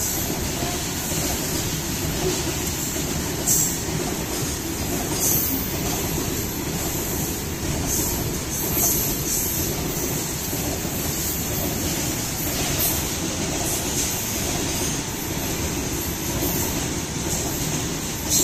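Goods train wagons rolling past: a steady rumble of steel wheels on the rails with a thin high squeal running through it. It is broken by a few sharp clacks as the wheels cross rail joints.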